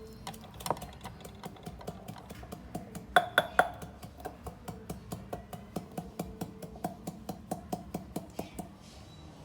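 Short, sharp light knocks repeating at about three a second, with a louder cluster about three seconds in; they stop near the end.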